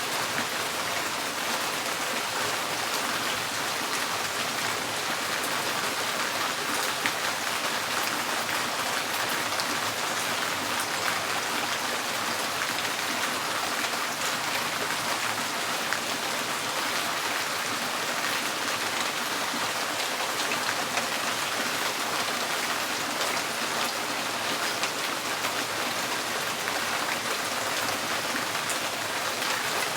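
Steady rain falling on a tin porch roof, a dense even patter with a few slightly louder drop hits.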